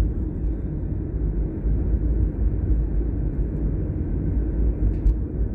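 Steady low engine and road rumble of a car driving, heard from inside the cabin.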